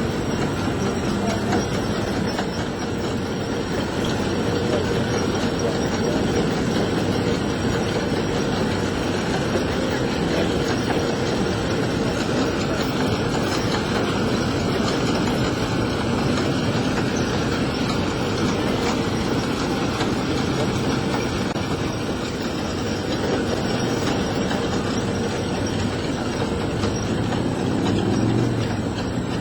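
Johnstown Inclined Plane funicular car running steadily down its rail track, wheels on rails.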